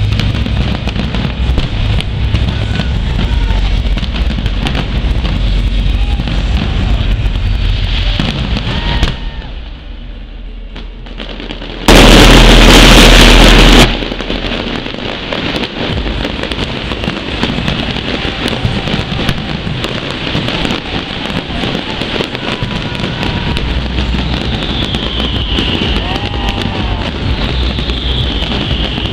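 A fireworks display with dense, continuous bangs and crackle, over a background that the tagger hears as music. About twelve seconds in, a very loud burst lasting about two seconds overloads the recording.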